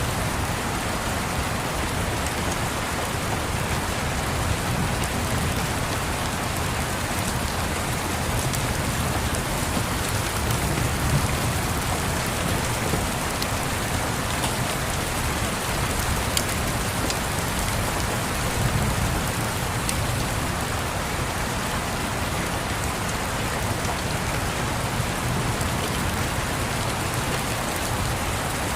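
Steady rain falling with a low rumble underneath, like thunder rolling far off, and a few faint crackles from a fireplace.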